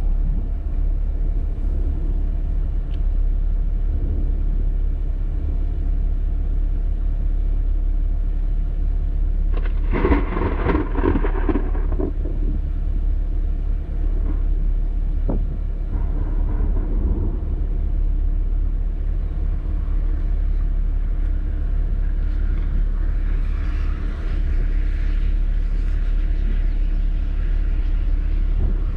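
Steady low rumble, with a brief louder, fuller burst about ten seconds in.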